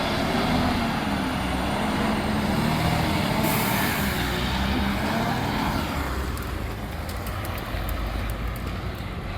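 Recycling truck's engine running loud and steady, with a hiss of air starting suddenly about three and a half seconds in; the engine eases a little after about six seconds.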